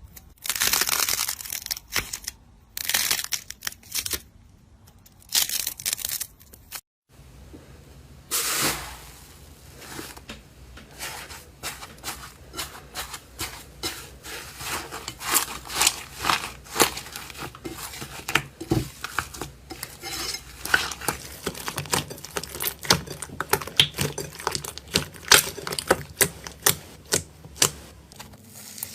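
Slime being squeezed and stretched by hand. There are a few separate second-long bursts of crackly noise, then after a short break a long run of small, sharp pops and clicks at an uneven pace.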